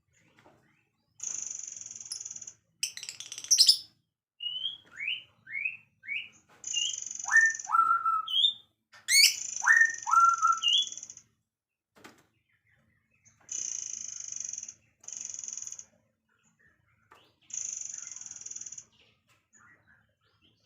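Songbird singing: high buzzy trills about a second long, repeated several times, alternating with quick rising whistled notes and upward-sweeping whistles that level off, in separate phrases with short pauses between.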